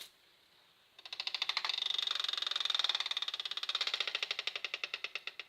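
Fast-spinning fidget spinner whose arms strike a small label held against them, making a rapid machine-gun rattle. It starts about a second in after a single click, then slows and fades toward the end as the contact brakes the spinner.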